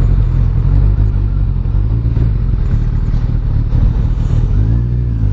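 Motorcycle engine running under throttle at road speed. Its pitch drops slightly about four and a half seconds in.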